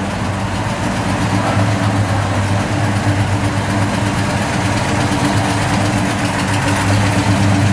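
Dodge Charger R/T's 512-cubic-inch stroker V8 idling steadily.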